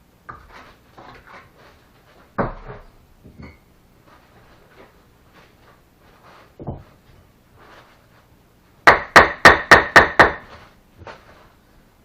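Bricklaying sounds: soft scrapes and light taps of a trowel working mortar and brick, then a quick run of about seven sharp, ringing knocks on brick, a little over three a second, near the end.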